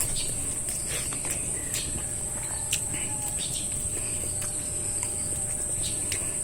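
Steady, high-pitched drone of an insect chorus, with scattered faint short clicks and chirps over it.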